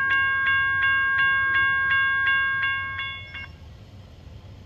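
Railroad crossing bell ringing about three strokes a second, then cutting off about three and a half seconds in. It is still ringing after the train has cleared, which the railfan takes for a malfunctioning crossing.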